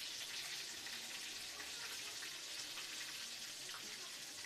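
Samosas frying in hot oil in a pan: a steady sizzle with scattered small crackles as they brown.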